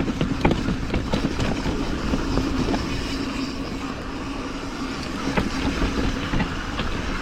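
Mountain bike riding down a dirt trail: steady tyre and wind noise on a helmet- or bike-mounted action camera, with frequent short rattles and knocks from the bike over the ground and a faint steady hum.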